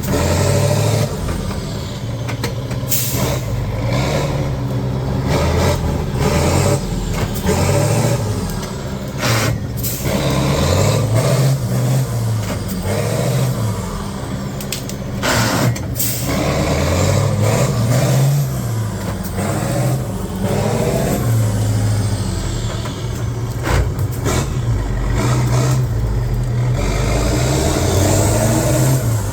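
Heavy off-road trial truck's diesel engine revving up and down repeatedly under load, with a few short sharp hisses, around three, nine and fifteen seconds in.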